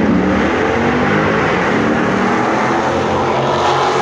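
Drag-racing car engines running hard, their pitch gliding up and dropping again as they rev.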